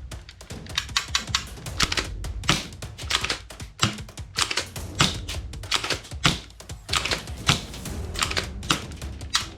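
A rapid, irregular series of sharp clicks and snaps, several a second, like hard plastic parts being worked.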